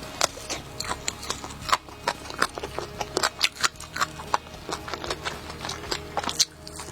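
Close-miked chewing of a mouthful of burger: irregular wet mouth clicks and soft crunches, several a second.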